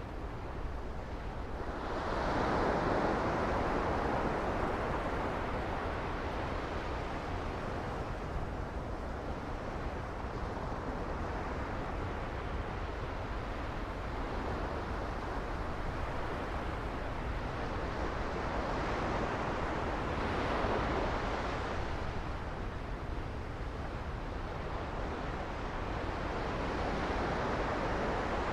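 Sea waves washing onto a beach, swelling louder about two seconds in and again about twenty seconds in, with a steady low rumble of wind on the microphone.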